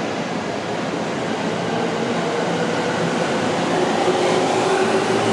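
JR Tokaido Line electric commuter train pulling out along the platform: a steady rush of wheel and running noise, with a faint motor whine rising in pitch in the second half as it gathers speed.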